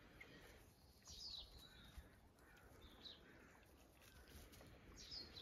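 Near silence outdoors, broken by a few faint, short, high bird chirps about a second, three seconds and five seconds in.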